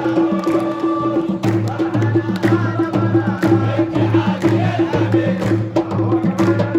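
Crowd of supporters chanting together over a steady drum beat of about two strokes a second, the drumming growing stronger about a second and a half in.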